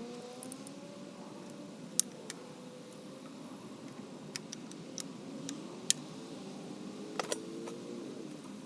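Hand tools and engine parts clinking in a series of short sharp clicks, the two loudest about two seconds in and about six seconds in, over a steady background with a faint wavering tone.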